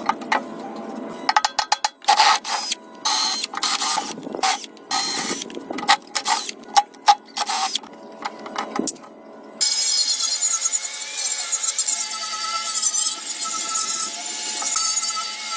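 Workshop tool sounds: a rapid, irregular run of short clicks and knocks, then from about ten seconds in a power tool running steadily with a faint wavering whine.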